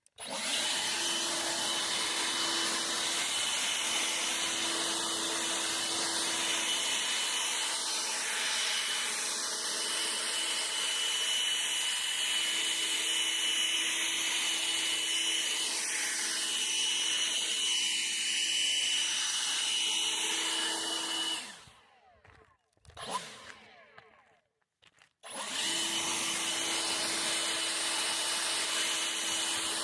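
Electric leaf blower running steadily, a constant whine over the rush of air. It cuts out about two-thirds of the way through, gives a short blip on the trigger, then starts up again a few seconds later.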